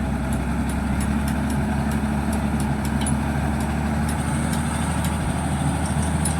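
Heavy diesel engine idling steadily, with a faint regular ticking over the low hum.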